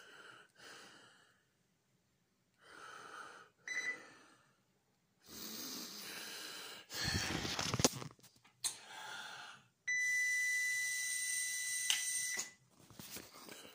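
A man's breathy, wheezy noises in short bursts, several seconds apart. About ten seconds in, a steady high tone lasts about two and a half seconds.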